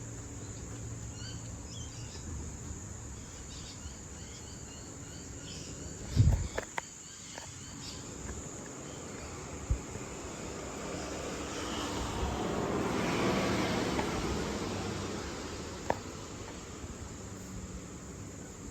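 Crickets trilling in one steady high-pitched drone. A thump comes about six seconds in, and a broad rush of noise swells up and fades away again between about ten and sixteen seconds.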